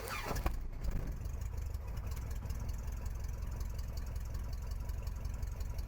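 Cessna 150's Continental O-200 four-cylinder engine idling just after being started, a steady low rumble.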